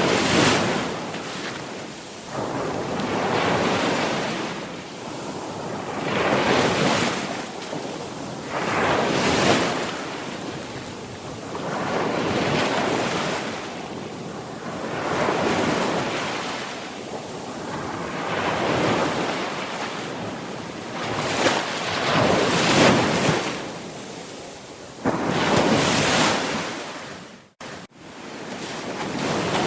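Sea waves breaking and washing on a shore, the surf swelling and falling away every two to three seconds. The sound cuts out briefly near the end.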